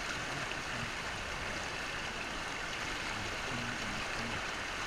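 Steady rush of creek water running fast through a small rapid, an even hiss with no breaks.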